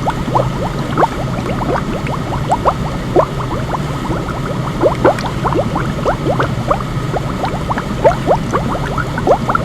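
Water bubbling steadily: a dense, irregular stream of short rising bubble plops over a continuous hiss.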